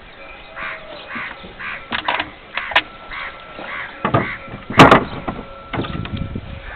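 Crows cawing in two runs of three calls, about half a second apart, with a few sharp wooden-sounding knocks in between, the loudest a little before five seconds in.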